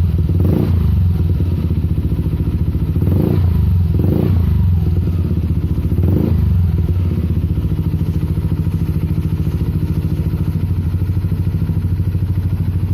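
Yamaha Aerox 155's single-cylinder scooter engine idling through a Prospeed Blue aftermarket exhaust, with a deep, bassy note. It is given about five quick throttle blips in the first seven seconds, each rising and falling back, then it settles into a steady idle.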